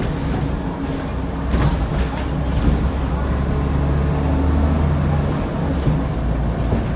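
Scania N94UD double-decker bus's DC09 diesel engine running steadily under way, with a few knocks and rattles from the bus around two seconds in.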